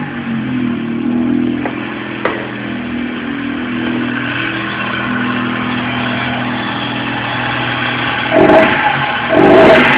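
Fiat Palio Young 1.0 engine, air filter removed, idling steadily, then revved twice in short blips near the end.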